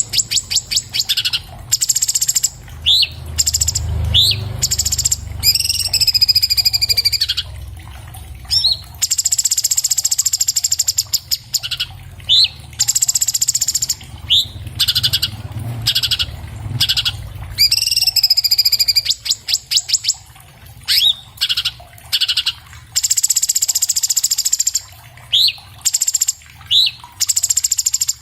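Orange-bellied leafbird (cucak cungkok) singing continuously in rapid, loud phrases: fast buzzy trills, sharp rising whistled notes and chattering runs with only short pauses between them.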